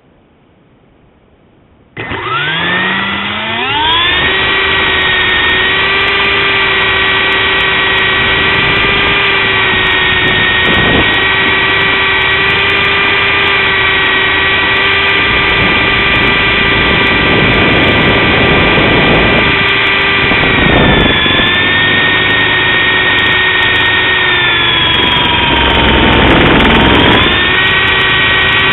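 MJX F45 radio-controlled helicopter's electric motor and rotor spooling up with a rising whine about two seconds in, then running at a steady high whine, dipping in pitch briefly twice in the last third.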